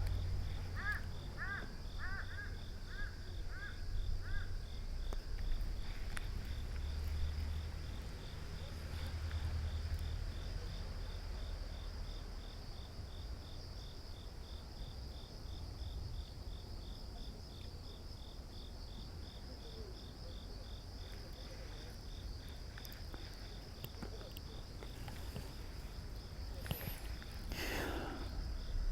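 Insects trilling steadily in rapid, even pulses, over a low outdoor rumble. A run of about eight short chirps comes in the first five seconds.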